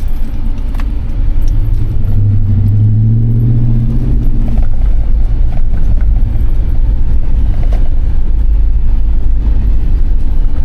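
Gen 1 Ford Raptor's V8 running while the truck drives, heard as a loud, steady low rumble inside the cab. The engine note climbs for a couple of seconds about two seconds in, then settles back.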